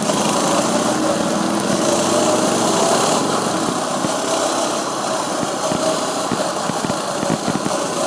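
Coleman minibike's small single-cylinder engine running under way, its pitch drifting gently up and down with the throttle, with low thumps in the second half.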